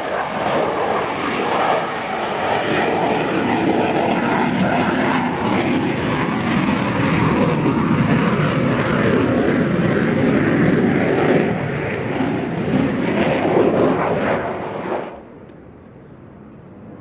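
Loud aircraft engine noise: a dense, steady roar that swells over the first second and cuts off suddenly about fifteen seconds in.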